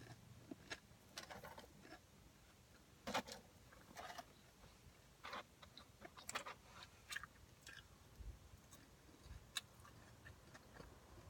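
Someone chewing fries close to the microphone: a scatter of short, soft crunches and mouth clicks at irregular moments, the loudest about three seconds in.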